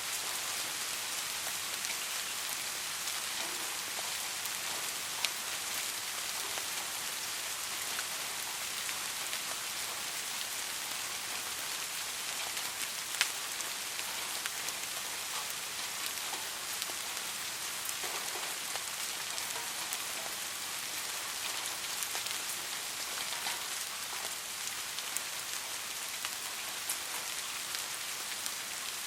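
Steady soft rain falling, an even hiss with scattered individual drops ticking sharply, one more pronounced about five seconds in and another about thirteen seconds in.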